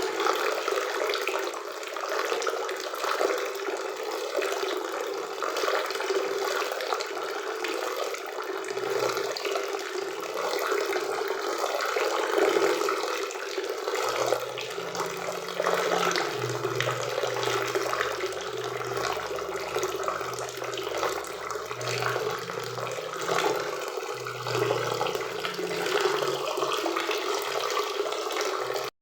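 Waterfall and river water rushing steadily, a constant even splashing roar.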